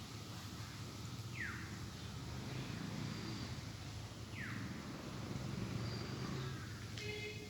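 A bird calling outdoors: a short whistled note sliding steeply downward, repeated about every three seconds, over a low background rumble. A brief higher squeak comes near the end.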